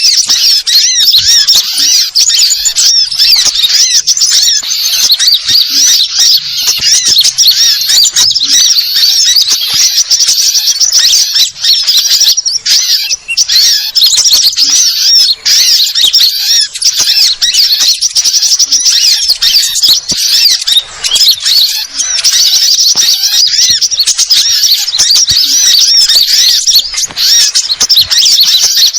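Sunbirds calling non-stop: a dense, loud chatter of high, rapid chirps and trills.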